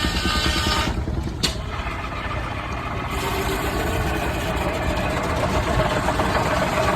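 Steam tractor engine running steadily with evenly spaced low exhaust beats, after background music cuts off about a second in.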